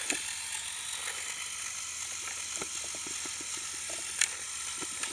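Lego Technic RC trial truck's electric motors and gears whining steadily as it crawls over rock, with a run of small clicks and knocks from the plastic drivetrain and wheels about halfway through and a sharper knock near the end.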